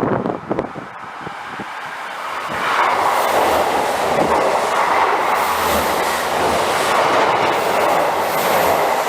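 Train passing close by: rail noise builds over the first three seconds, then holds as a steady loud rush of wheels on the track.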